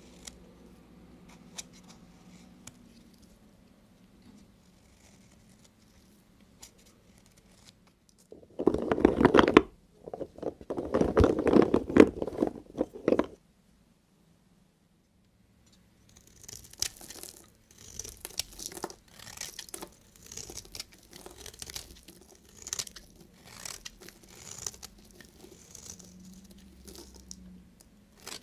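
Knife cutting through soap. Two loud spells of crunching come about nine and eleven seconds in, then, after a short break, a steady run of crisp crunchy cuts, one or two a second.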